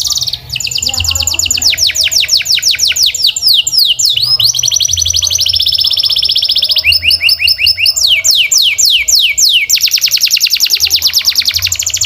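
Domestic canary singing a long unbroken song made of fast trills. Each run repeats one short note many times a second, mostly quick downward sweeps, and the song switches to a new trill every second or two, with steady high rolling trills in between.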